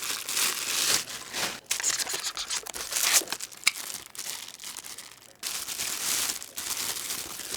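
Packing material crinkling and rustling, with some tearing, as items are lifted out of a gift box. The rustling comes in irregular bursts, with a short pause about two-thirds of the way through.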